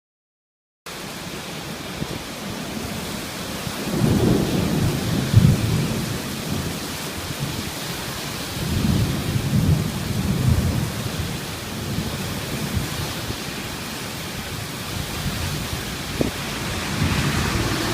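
Heavy downpour hissing steadily, starting about a second in, with low rolling rumbles of thunder swelling twice, around four and nine seconds in.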